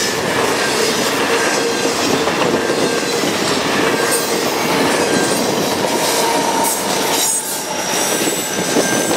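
Double-stack intermodal container cars rolling past at speed: a steady rumble of steel wheels on rail, with thin wheel squeal coming and going. Near the end the trailing SD70M-2 diesel locomotive comes alongside.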